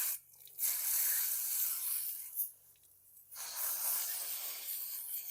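Pressurised spray hissing in bursts as the top half of a lawn mower carburetor is blown out for cleaning: a long blast, a short puff about two and a half seconds in, then another long blast.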